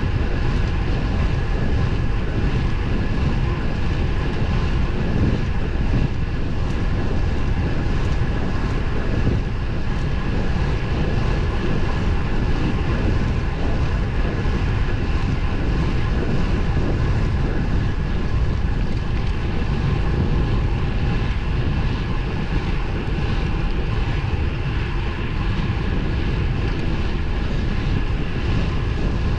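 Steady wind rush over the microphone of a road bike riding at speed, with a faint steady whine above it.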